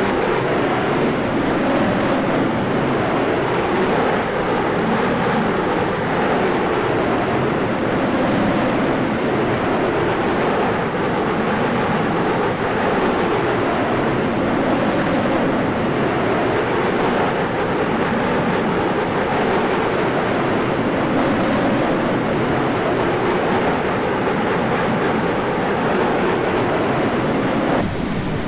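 Steady loud rush of airflow and engine noise picked up by a camera mounted outside an aircraft's fuselage in low-level flight, with the tone shifting slightly near the end.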